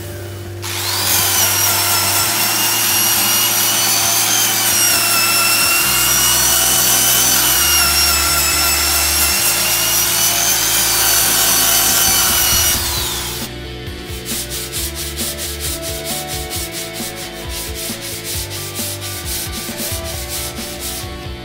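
A small hand-held rotary tool with a sanding drum runs against the wood of a cricket bat's shoulder, a loud whine that wavers in pitch under load, stopping about 13 seconds in. Then sandpaper is rubbed by hand along the bat's blade in quick, even back-and-forth strokes.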